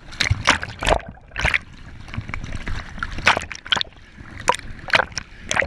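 Water sloshing and splashing in irregular slaps, with a low rumble underneath.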